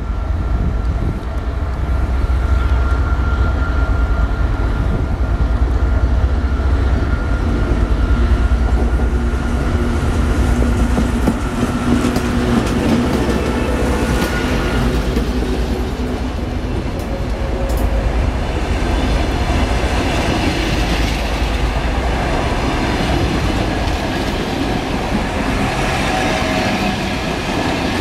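TEP70 diesel locomotive's V16 engine rumbling as it draws slowly past, then passenger coaches rolling by with their wheels clacking over the rail joints and squealing faintly.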